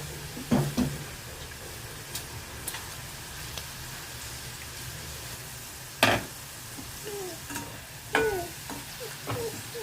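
Masala-coated okra sizzling as it fries in hot oil, with a spatula stirring and knocking against the pan a few times, the loudest knock about six seconds in.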